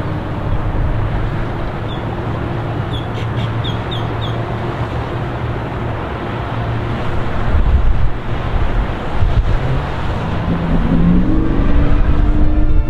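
MerCruiser 5.0L EFI V8 inboard engine of a Sea Ray 260 Sundancer running steadily, getting somewhat louder in the second half.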